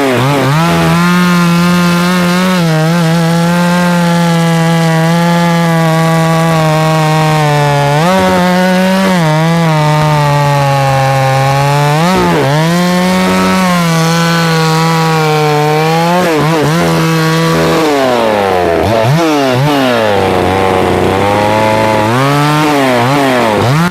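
Neotec NSC 6800 two-stroke gas chainsaw running at high revs while cutting wood, its pitch dipping briefly several times as it loads up in the cut. Over the last several seconds it is revved up and down repeatedly.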